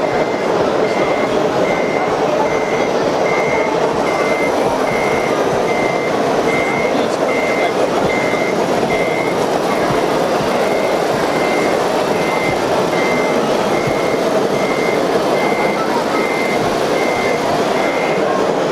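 Reversing alarm of an RC model truck or construction machine, a single-pitched electronic beep repeating about three times every two seconds, stopping shortly before the end. A steady background noise runs beneath it.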